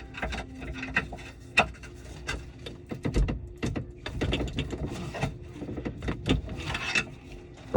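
Hand work on a kitchen sink's disposal and drain piping: irregular clicks, knocks and scraping of tools and parts being handled, over a faint steady hum, with a sharper knock near the end.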